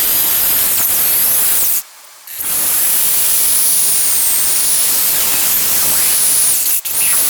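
Electric drill running under load while drilling a hole, a steady rushing noise with a high motor whine that wavers. It stops for about half a second around two seconds in, then runs again, with a brief drop near the end.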